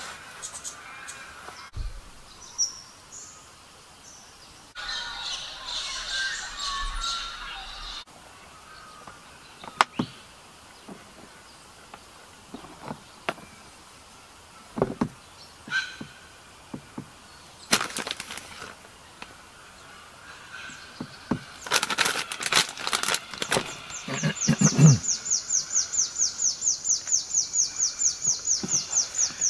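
Birds calling in open bushland, with scattered light knocks and clicks of a knife and bamboo cutting board as a sandwich is put together. A rapid high trill of about ten pulses a second sets in near the end and carries on.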